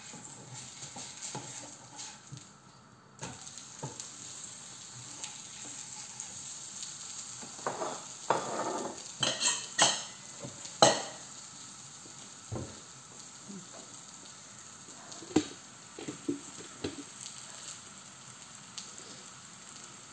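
Cornmeal-and-radish flatbread (makki ki mooli roti) sizzling steadily in a little oil in a pan. A run of knocks and scrapes from kitchen things being handled comes around the middle, ending in one sharp clack, and a few single knocks follow later.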